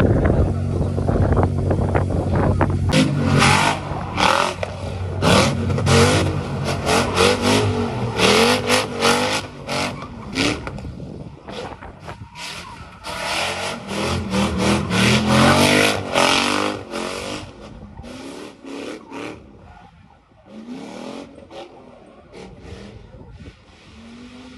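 Drift cars' engines revving hard, pitch rising and falling in quick sweeps with sharp bursts of noise, over a steady engine note close by in the first few seconds. It dies down after about 17 seconds.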